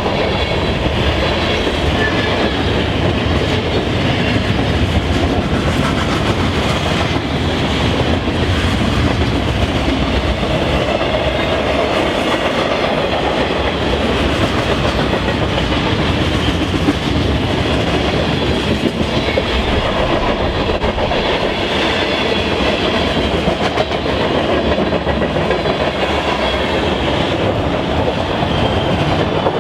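Train rolling past at steady speed, its wheels rumbling and clattering over the rails.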